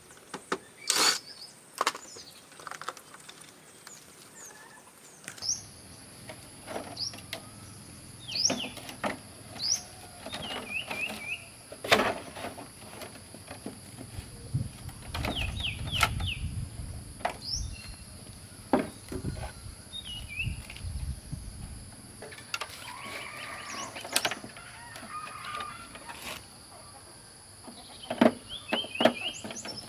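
Scattered clicks and knocks of hand tools on an old 17-inch television's casing as it is taken apart, with birds chirping in short bursts and chickens clucking around.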